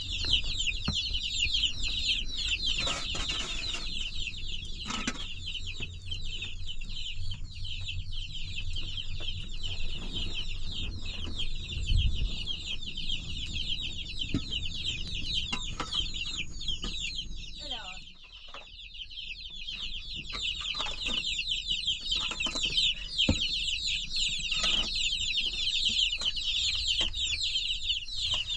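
Chickens clucking continuously, many birds calling over one another in a dense high chatter that thins out briefly about two-thirds of the way through.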